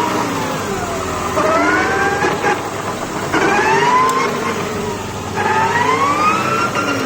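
A whistle from a Toyota Camry XV50 2.5 that rises and falls in pitch three times as the engine is revved, with engine noise beneath. The owner puts it down to the Aisin U760 automatic transmission but cannot pin down its cause.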